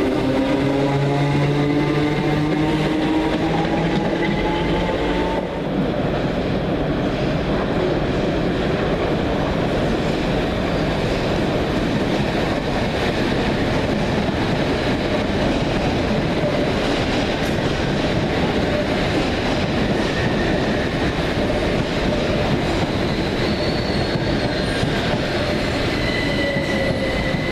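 A passenger train running, heard on board: a whine that rises in pitch for the first five seconds or so and cuts off, then steady running rumble with faint wheel squeal near the end.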